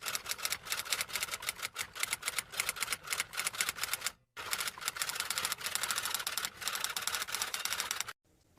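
Typewriter typing: a quick, irregular run of mechanical keystrokes clacking, with a brief pause about four seconds in, stopping shortly before the end.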